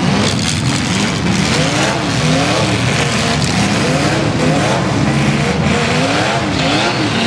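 Demolition derby car's V8 engine revving up and down over and over, its pitch climbing and dropping about once or twice a second, over the steady din of other derby cars running.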